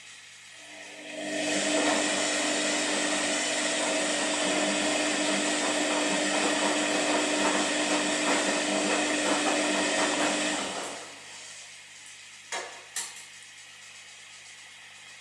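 Washing machine running its drum motor for about ten seconds with a steady hum, then winding down and stopping, as in a wash cycle's turn-and-pause. Two sharp clicks follow soon after.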